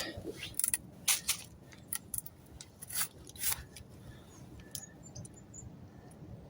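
Sawn wood and twigs being handled: a few light knocks and crackles in the first few seconds, then faint rustling.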